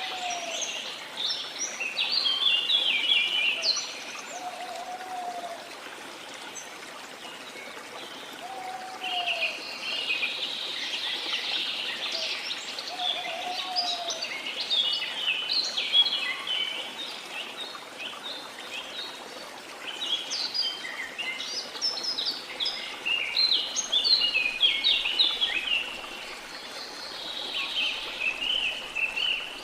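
Birds singing in dense bursts of chirps and trills over the steady rush of a flowing stream, with a lower short whistled note repeating about every four seconds in the first half.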